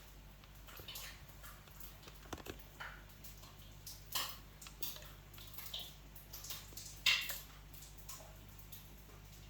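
Light kitchen handling noises: scattered short clicks and scrapes of utensils and dishes, the loudest about seven seconds in, over a low steady hum.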